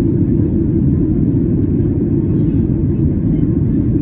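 Steady low roar inside the cabin of a Boeing 737-800 in flight: the CFM56-7B turbofan engines and the rush of air past the fuselage, even and unbroken.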